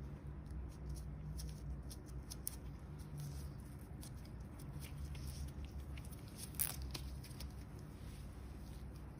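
Hands handling dry, peeling dead skin loosened by a foot peel mask: a run of small crackles and light tearing sounds, with one louder crackle about two-thirds of the way through, over a steady low hum.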